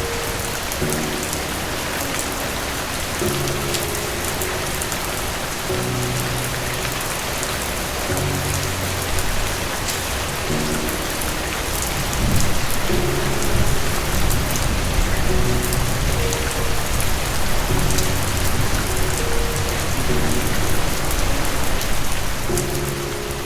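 Steady rain hiss with soft, slow piano chords underneath. About halfway through, a low thunder rumble swells in and rolls on until near the end.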